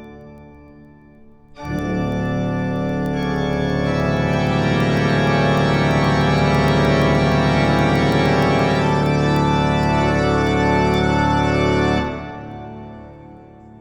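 Organ music: a full, sustained chord starts suddenly about two seconds in, is held steady for about ten seconds, then dies away.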